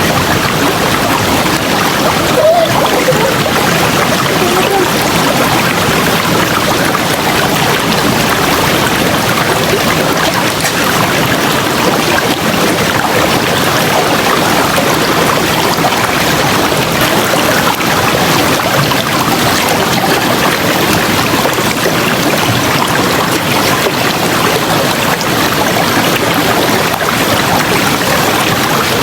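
River water flowing and rushing steadily, an even, loud rush of water without breaks.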